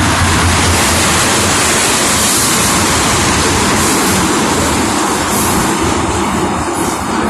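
Union Pacific freight train rolling past close by: a loud, steady rush of wheel and rail noise with a low rumble underneath.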